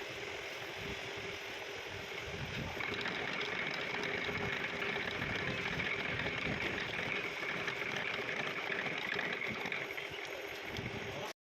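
Metalworking machine tool running, a steady hum with a high whine that grows louder about three seconds in. The sound cuts off abruptly near the end.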